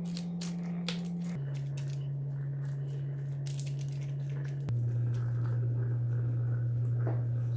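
Small handling noises, light clicks, crinkling and squishing, over a steady low drone that steps to a new pitch twice.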